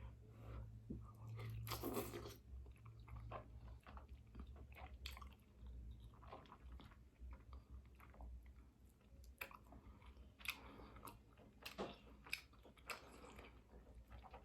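Faint close-up chewing and biting of seafood-boil food, with irregular wet smacks and small crunches and a louder one about two seconds in.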